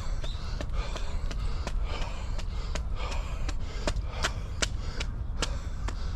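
A runner's footsteps on a park path, about three even steps a second, over a steady low rumble of wind and movement on the microphone.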